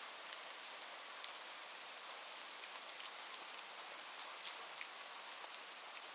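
Steady rain hiss with scattered light ticks from single drops landing.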